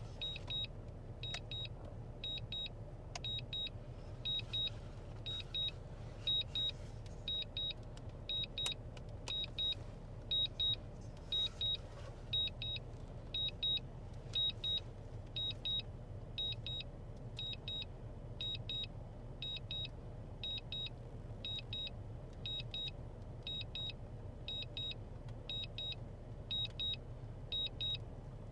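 Electronic beeping: a high double beep repeating about once a second over a steady low hum.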